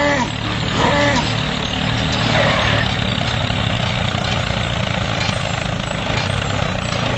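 A motor running steadily with an even, rapid low pulsing and a dense rush above it. A few short vocal sounds come over it in the first few seconds.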